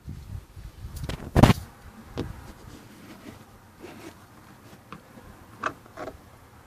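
A series of irregular knocks, clicks and scrapes, the loudest a thump about one and a half seconds in.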